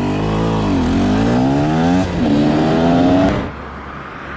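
TM SMR 300 two-stroke motorcycle engine revving: the pitch dips, climbs, breaks off briefly about two seconds in and climbs again, then drops to a low steady run a little after three seconds in.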